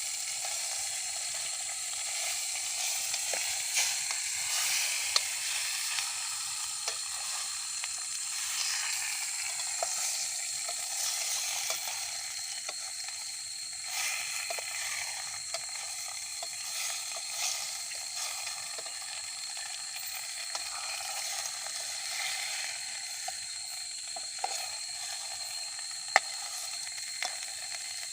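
Fish frying with spices and butter in a pan, sizzling steadily, with scattered small clicks of a utensil stirring it.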